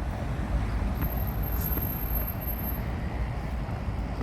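Outdoor city street background: a steady low rumble of traffic with general street noise.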